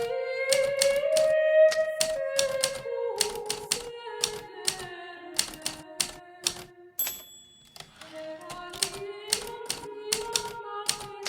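Hermes Baby portable typewriter keys striking in quick, irregular runs of clicks, with a short pause about seven seconds in, over a soft melody of held notes.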